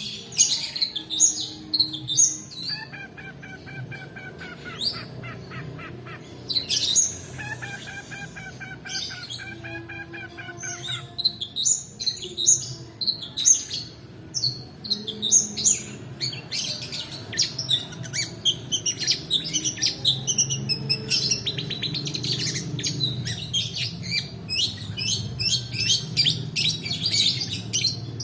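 Long-tailed shrike (pentet) singing a long, varied song. A fast rolling trill runs from about 3 to 6 s and again from about 8 to 11 s, mixed with many quick high chirps, over a steady low hum.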